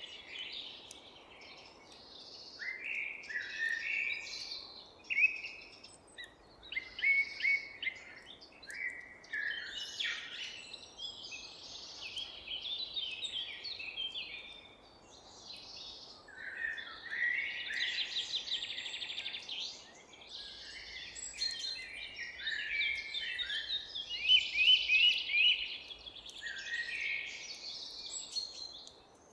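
Several songbirds singing and chirping at once, overlapping high-pitched chirps and quick trills with short gaps, over a faint steady background hiss.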